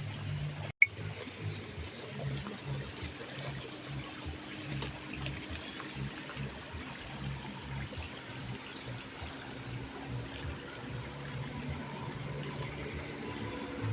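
Running water trickling and flowing steadily, with a brief dropout about a second in.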